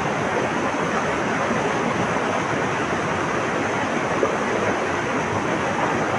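Flowing water rushing steadily, an even wash of sound with no birdsong standing out.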